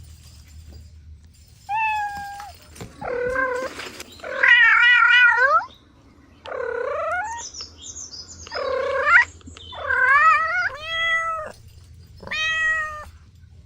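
Cat meowing repeatedly, about eight separate meows with pauses between them. The longest and loudest, about halfway through, wavers in pitch.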